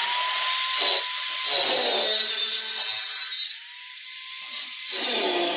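Handheld power tool running: a high motor whine over a gritty working noise. About three and a half seconds in, the gritty noise drops away for over a second while the whine rises back up and holds, then the noise returns.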